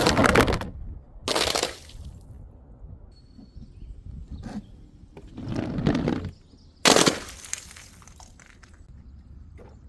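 Glass bottles smashing: a series of sudden crashes, four loud ones with smaller knocks and clinks between, the sharpest about seven seconds in.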